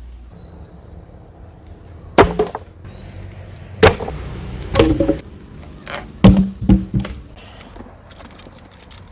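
Wood being chopped by hand with a blade: about eight sharp blows, irregularly spaced and some in quick pairs, starting about two seconds in.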